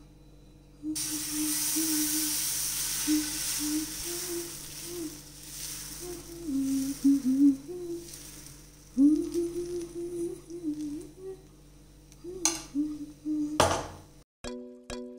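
Besan chilla batter sizzling on a hot pan, the hiss starting suddenly about a second in and slowly dying down. A woman hums over it, and a couple of utensil knocks come near the end.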